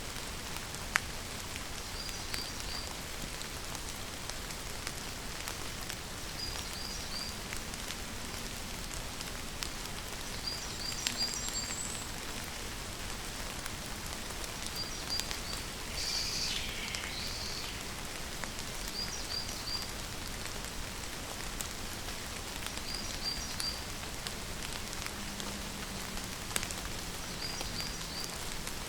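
Steady rainfall with scattered louder drops ticking on a surface. A high three-note chirp repeats about every four seconds, and a longer, louder call comes about halfway through.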